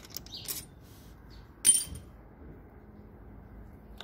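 Metal engine parts and tools clinking during engine teardown: a light click and a short scrape, then one sharp metallic clink with a brief ring a little under two seconds in.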